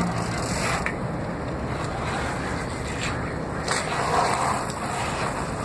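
Bicycle being ridden: a steady rushing, rattling noise of the moving bike with a few sharp clicks.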